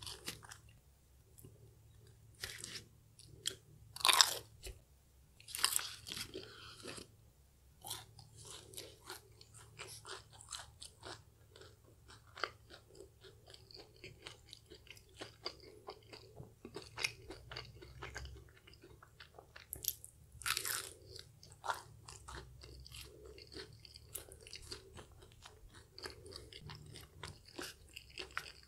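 Close-miked biting and chewing of a KFC crispy fried chicken tender: crisp crunches of the breaded coating, with several loud bites in the first seven seconds and again about twenty seconds in, over steady crackly chewing.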